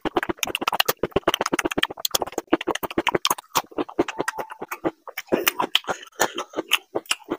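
Close-miked wet chewing and lip-smacking of a mouthful of food: a fast run of clicks, several a second, that thins out into sparser smacks about halfway through.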